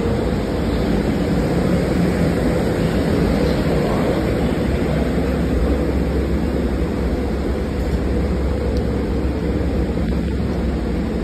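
SEPTA Regional Rail commuter train pulling into the platform: a loud, steady rumble of wheels on rails and running gear as the cars roll past.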